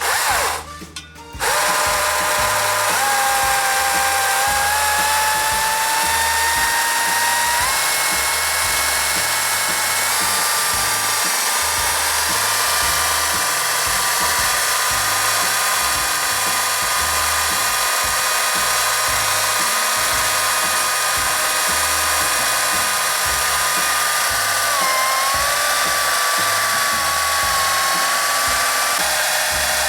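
An electric power tool's motor runs continuously at high speed, starting about a second in. Its whine creeps slowly upward in pitch, steps up a couple of times, and dips briefly near the end.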